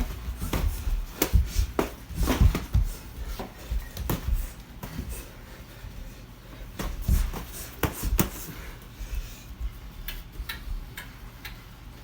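Irregular slaps and thuds of boxing gloves landing and feet shuffling on a hard floor during sparring, busiest in the first half and sparser toward the end.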